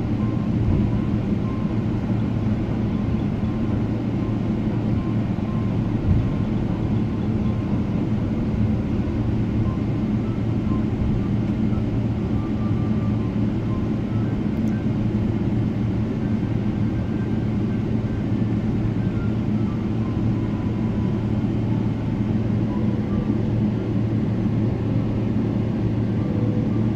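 Steady drone of a Boeing 777-300ER's GE90 engines and airflow heard inside the passenger cabin, with a brief knock about six seconds in.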